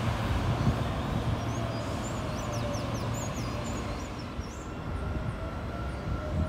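Electric commuter train on the line at the station: a steady low rumble with a faint whine that slowly shifts in pitch, growing louder near the end as the train comes in.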